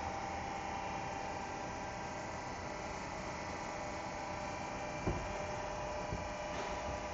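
CNC lathe running its program as a dry run, without cutting: a steady machine hum with a few constant whining tones, and one short knock about five seconds in.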